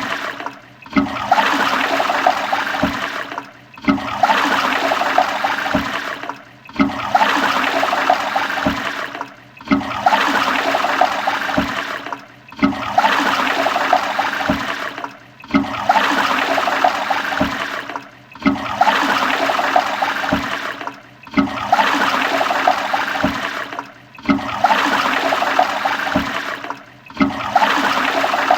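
A toilet flushing: a rush of water that cuts off and starts again about every three seconds, the same short flush looped over and over.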